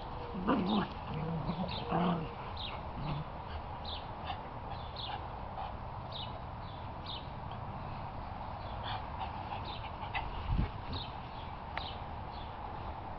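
Small birds singing, with short, high, downward-sliding chirps repeated about once or twice a second. A dog gives two short barks near the start, and there is a single low thump about ten seconds in.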